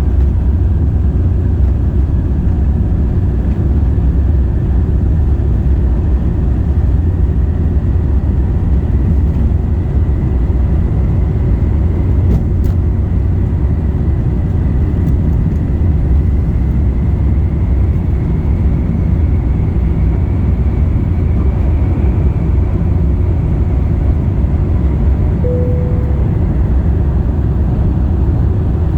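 Steady low rumble of an Airbus A350-1000's cabin, from its engines and the airflow around it, with a faint thin whine that drifts slowly higher.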